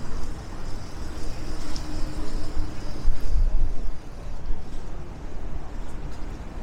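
City street ambience: an uneven low rumble of traffic and wind.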